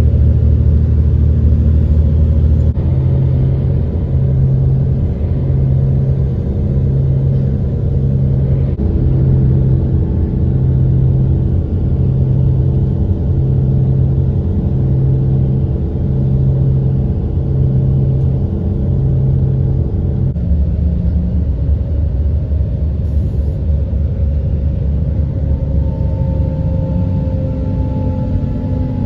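Bus engine and road noise heard from inside the cabin on the highway, a steady low hum. From about three seconds in a low tone pulses roughly once a second until about twenty seconds in, and near the end a faint whine slowly falls in pitch.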